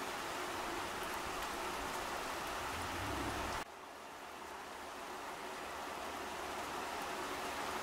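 Steady rain falling on leaves and plants. A little past halfway it suddenly drops quieter, then slowly builds back up.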